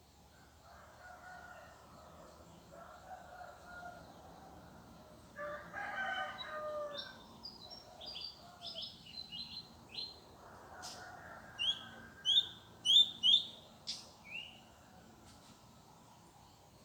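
Roosters crowing, one fainter and far off, one louder about five seconds in, with small birds chirping. A run of sharp, loud bird chirps near the end is the loudest sound.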